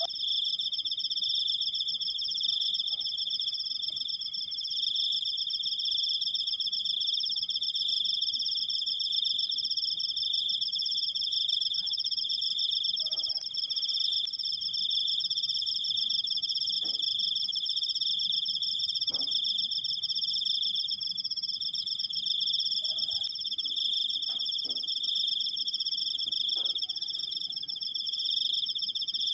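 Cricket singing one continuous, high-pitched trill that holds steady without a break.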